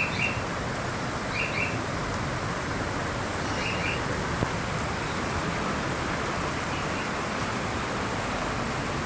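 Steady rush of a flooded creek running high, with a bird giving short double chirps a few times over it.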